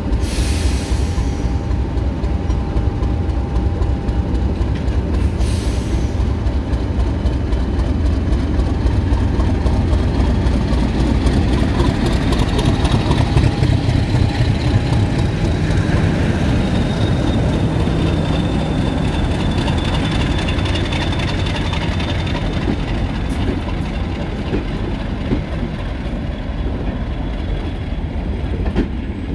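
Diesel train running, its engine a continuous low drone that grows loudest about halfway through, with a thin high whine over it through the middle part.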